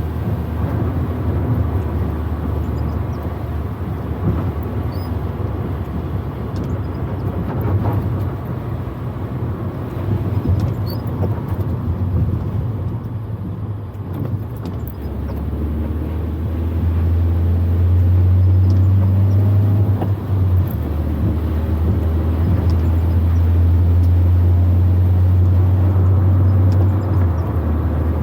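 Proton Wira 1.5's four-cylinder engine and road noise heard from inside the moving car. The engine drone grows louder past the middle, dips sharply about two-thirds through, rises again, then drops near the end.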